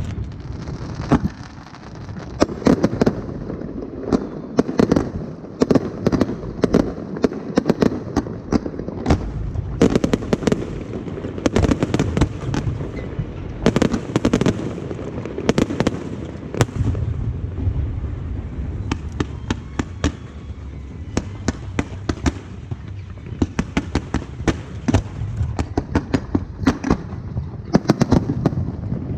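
Aerial fireworks bursting overhead: a continuous series of sharp bangs, some coming in quick crackling clusters.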